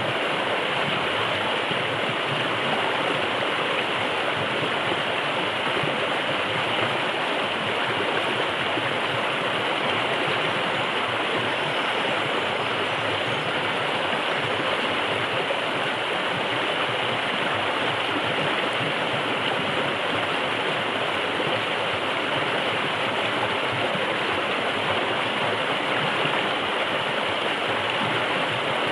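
A forest river running, a steady, even rush of flowing water.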